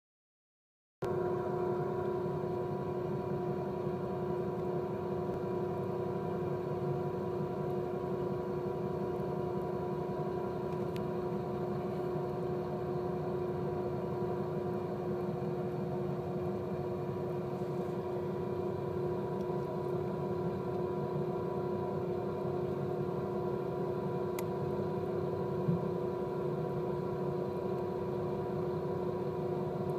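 Ship's engine running with a steady droning hum that starts about a second in and holds unchanged, with one brief click near the end.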